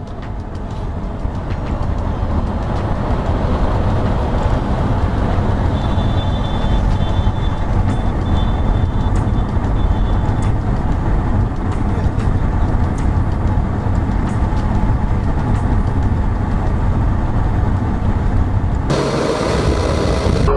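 Steady road and engine noise of a vehicle on the move. A faint, broken high tone comes and goes for a few seconds partway through.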